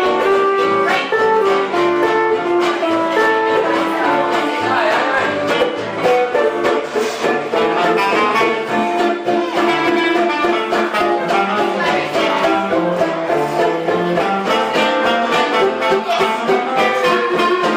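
Live band playing music, led by plucked string instruments over a steady beat.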